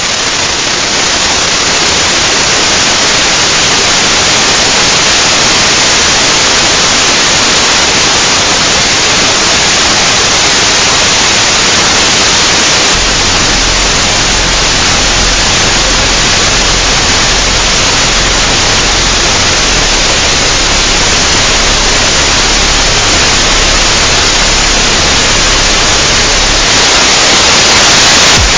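Steady, loud synthetic hiss-like noise with an even rushing sound. About halfway through, a low hum joins it and pulses on and off.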